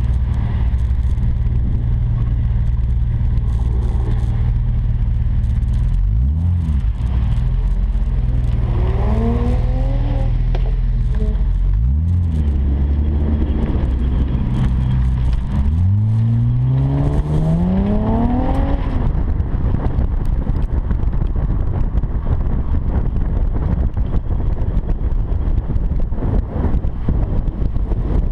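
2007 Acura TL's V6 heard close through an aftermarket quad-tip catback exhaust with Magnaflow mufflers. It runs steadily and low, then rises in pitch under throttle several times; the longest climb comes a little past halfway. After that it settles into a steadier, rougher sound with a rushing noise over it.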